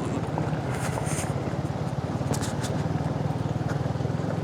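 Suzuki Gixxer 250 motorcycle's single-cylinder engine running at a steady, even pitch under way, with road and wind noise, heard through a helmet-mounted camera.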